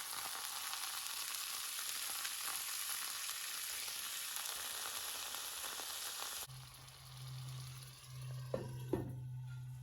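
Beef sizzling in a skillet, a steady frying hiss that cuts off abruptly about two-thirds of the way in. After it come a low steady hum and two short knocks.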